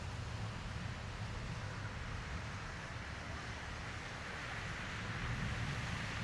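Heavy rain pouring steadily during a thunderstorm, a continuous hiss with a low rumble beneath it, growing a little louder about five seconds in.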